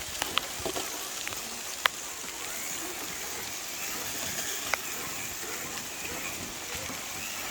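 Steady rain falling, an even hiss with a few sharp ticks of drops landing close by.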